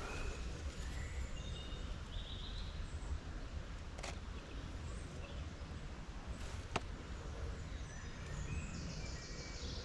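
Outdoor background rumble with a few short bird chirps early on, and two sharp clicks about four and seven seconds in.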